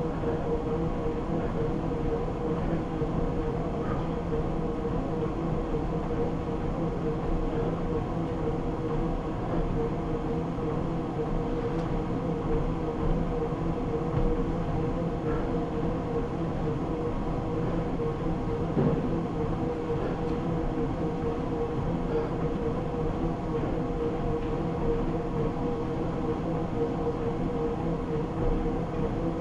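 Treadmill running steadily: a constant mechanical hum with a steady tone over the noise of the moving belt.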